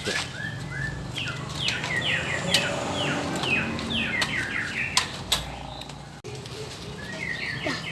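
Young white-rumped shama (murai batu) singing: runs of short, quickly repeated downward-sweeping whistled notes in several phrases, with a few sharp clicks in between.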